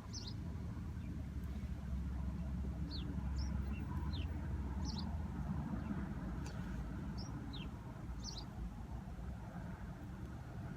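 Small birds chirping in short, quick downward notes, often in pairs, over a steady low rumble.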